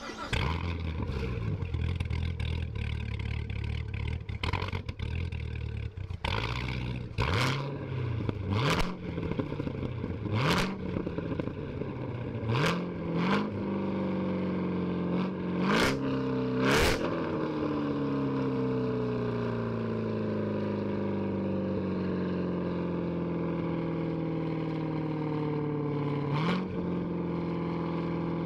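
Car engine with a loud aftermarket exhaust starting, idling, then blipped in about seven quick revs, each with a sharp burst of exhaust noise. After the last rev the fast idle slowly settles lower, and one more short blip comes near the end.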